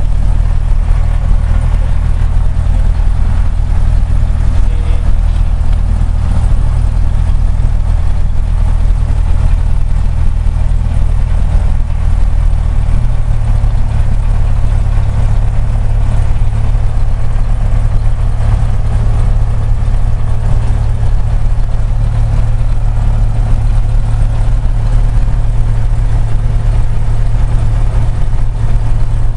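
Cessna 172SP's four-cylinder Lycoming IO-360 piston engine and propeller running steadily at low power shortly after start. About 13 seconds in, the engine note shifts slightly as the power setting changes.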